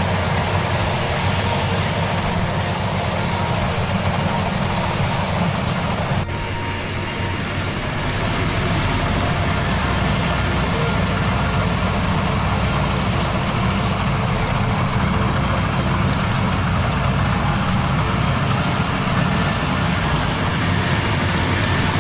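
Maxxi Bimo combine harvester running steadily, its engine and machinery giving a continuous dense hum. About six seconds in there is a sharp click and a brief dip in level.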